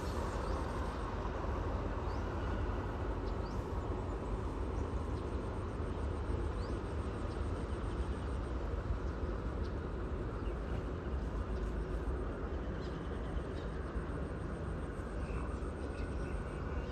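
Diesel train rumbling steadily with a deep, even drone, with no change in pitch or loudness.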